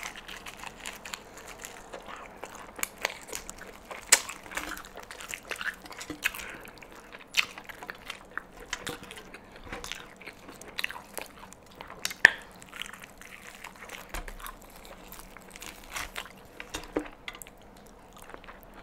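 Biting and chewing of crispy fried chicken: irregular crunches of the breaded crust mixed with chewing, with a few sharper crunches standing out.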